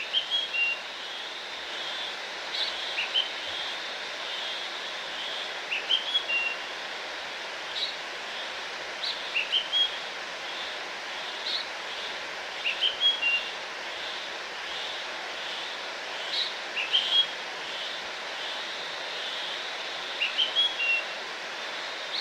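A songbird repeats a short, high chirping phrase every two seconds or so over the steady rush of a waterfall.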